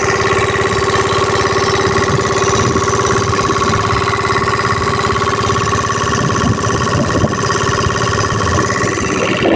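Kirloskar water-cooled diesel engine running steadily at idle with an even, unchanging beat.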